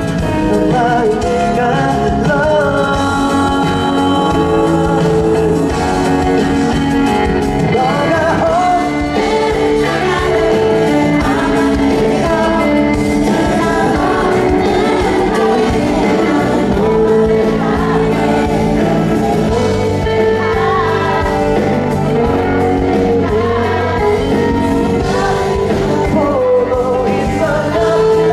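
Live pop song performance: singing over full band accompaniment, heard as amplified through a concert hall's sound system.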